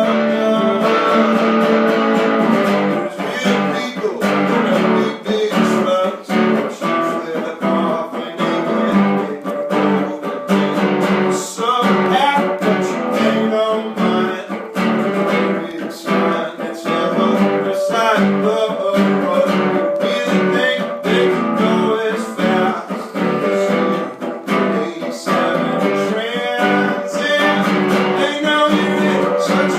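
Guitar strummed steadily through an instrumental passage of a live song, chords ringing continuously.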